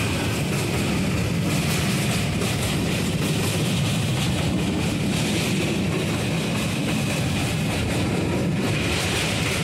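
Passenger train running across a steel truss rail bridge, heard from inside the coach: a steady rumble of wheels on rail.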